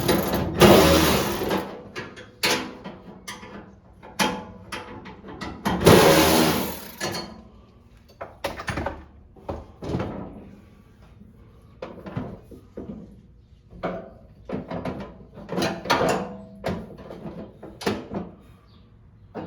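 Hand-work noises on a lawn tractor's headlight parts: irregular clicks, knocks and rattles of tools and small parts being handled, with two longer scraping, rustling bursts, one right at the start and one about six seconds in.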